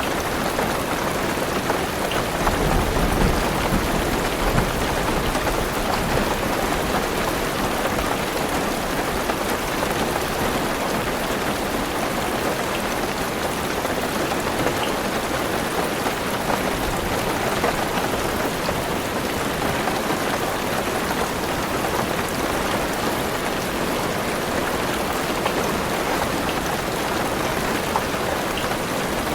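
Heavy rain falling on a car's roof and windows, heard from inside the car as a steady, dense patter. A low rumble of thunder swells a few seconds in.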